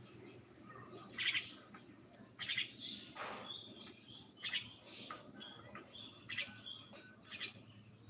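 A small bird chirping: short sharp chirps repeated about once a second, with a few brief whistled notes in between.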